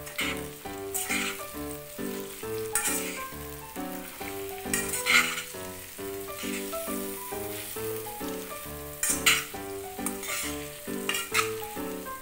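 Cassava (kappa) pieces frying in spiced oil in a kadai, sizzling as a spoon stirs and tosses them, with several louder bursts of sizzle and scraping as they are turned. Light background music plays under it.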